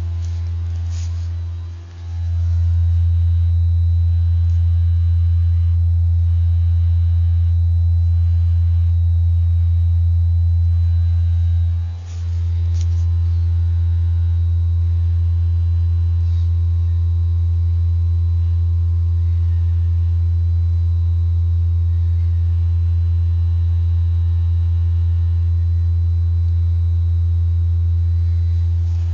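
A loud, steady low-pitched vibrating buzz, like a phone vibrating on a table, from an unidentified source. It dips briefly twice, about two seconds and about twelve seconds in.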